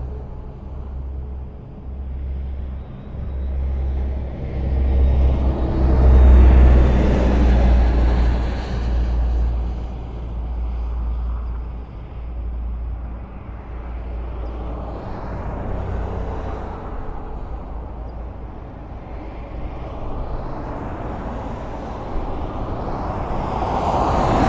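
Highway traffic: a steady low rumble and tyre hiss of cars passing. One vehicle passes loudly about six seconds in, and another comes close near the end.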